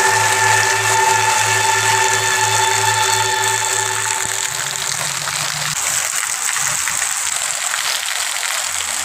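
Heavy rain pouring steadily. A droning music track of held tones over a low pulsing note fades out about halfway through.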